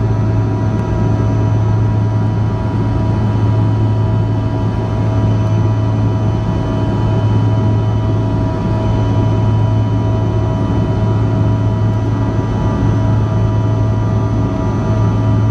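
Steady drone inside the cabin of a Bombardier CRJ-200 regional jet, from its rear-mounted GE CF34 turbofans. A strong low hum carries several faint steady whining tones over an even rush of air.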